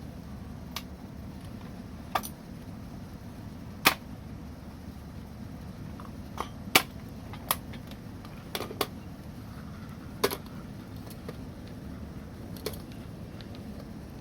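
Wood fire crackling: about ten sharp, irregular pops over a steady low rumble, the loudest about four and seven seconds in.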